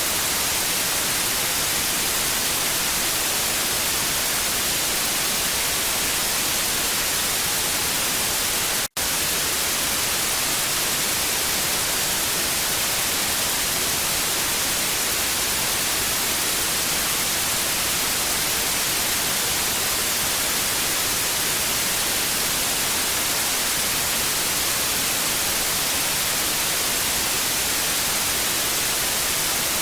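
Steady hiss of TV static: an even noise, brightest in the highs. It drops out for a split second about nine seconds in.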